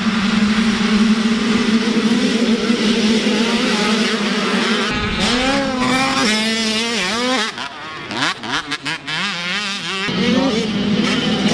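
Several motocross dirt-bike engines running together, holding a steady note, then revving with wavering, bending pitches. Around two-thirds of the way through, several engines rise sharply in pitch together before the sound settles back to a steady run.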